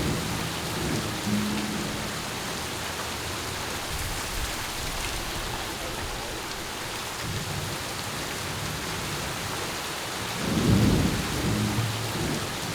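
Steady rain hiss, with low rolls of thunder swelling near the start and again near the end.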